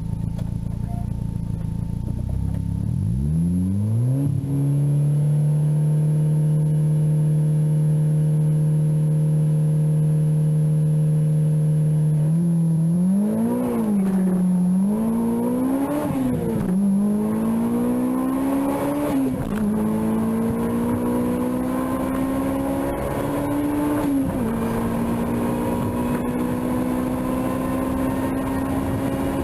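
Honda B-series VTEC four-cylinder engine heard from inside the car. It revs up a few seconds in and holds a steady pitch, is blipped up and down several times around the middle, then climbs slowly with one short drop in revs about three-quarters through.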